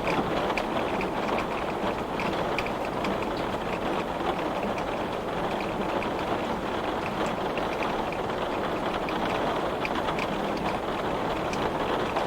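Heavy rain beating steadily on a glass pane, a dense wash of noise with many individual drops ticking sharply against the glass.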